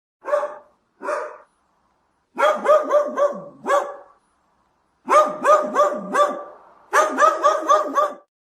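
A dog barking: two single barks, then three quick runs of about five barks each.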